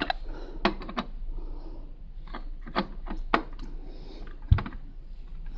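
Plastic Lego pieces being handled: a scatter of sharp clicks and taps at irregular intervals, with one duller knock about four and a half seconds in.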